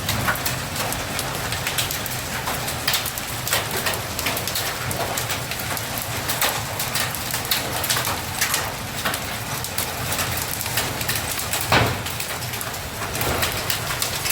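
Hailstones falling with rain, a dense patter of sharp separate hits over a steady wash of rain, a few hits louder than the rest.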